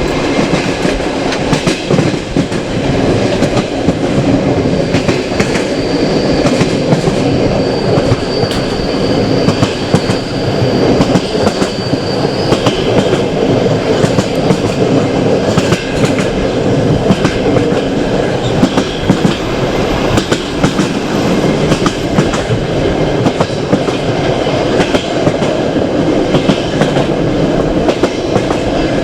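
Passenger train carriage running on the line, heard from its open window: steady rumble of the wheels with frequent clicks as they pass over rail joints, and a faint high whine from about five to twelve seconds in.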